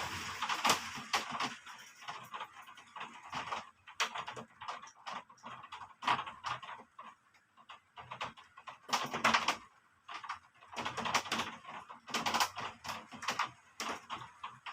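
Rain and wind: irregular pattering and clicking that comes and goes in gusty bursts, dropping almost to nothing twice, around the middle and again a little later.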